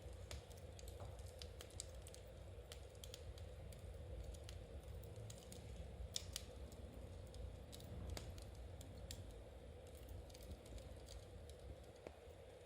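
Knitting needles clicking softly and irregularly over the faint crackle of a fireplace fire, with a low steady hum underneath.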